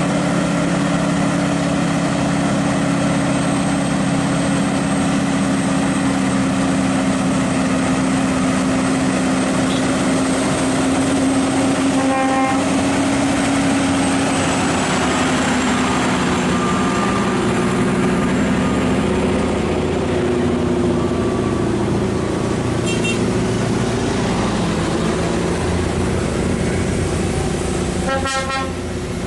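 Heavy truck engine running steadily, with a short horn toot partway through, a brief high beep later, and a stronger horn blast near the end.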